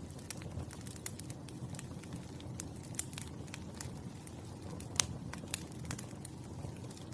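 Campfire burning with a steady low rumble and irregular crackles and pops of burning wood, the loudest pop about five seconds in.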